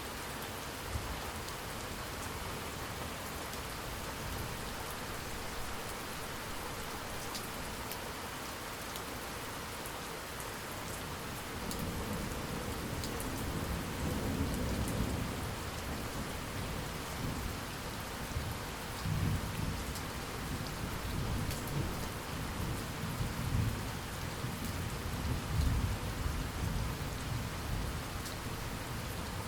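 Steady rain falling, with thunder: a low rumble builds from a little before halfway and rolls on in uneven waves.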